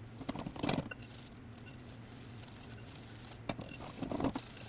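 Butter and sugar being creamed by hand in a mixing bowl: two spells of a utensil scraping and knocking against the bowl, one just after the start and another in the second half.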